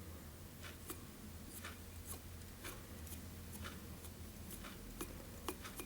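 Faint soft ticks, about one or two a second, from fingers working dubbing onto fly-tying thread at the vise, over a low steady hum.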